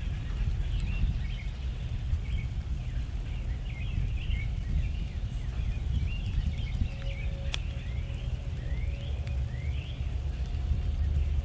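Small backyard birds chirping and calling over and over, many short quick rising notes, over a steady low rumble. A single sharp click about seven and a half seconds in.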